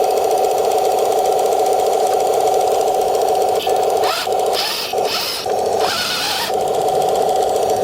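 Radio-controlled M26 tank model with metal tracks driving, its drive running as a steady mechanical drone. Three short bursts of rough noise come between about four and six and a half seconds in.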